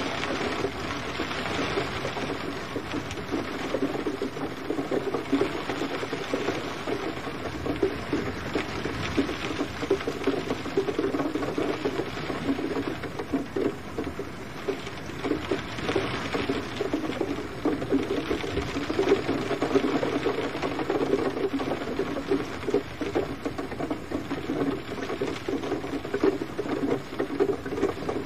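Steady gentle rain, a dense even patter of many small drops with no thunder.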